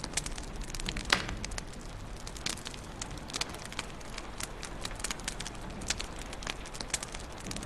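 Wood fire crackling in a fireplace: irregular sharp snaps and pops over a soft steady hiss, with the loudest snap about a second in.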